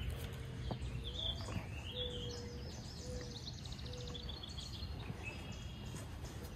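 Birds chirping faintly over a steady low outdoor rumble, with a few short high chirps and a quick trill.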